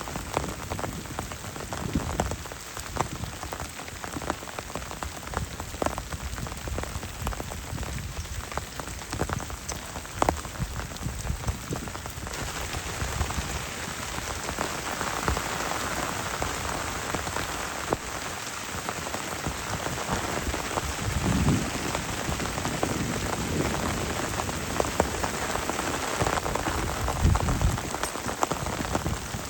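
Heavy rain falling, with a dense patter of individual drops striking close by. The hiss of the rain grows abruptly stronger about twelve seconds in.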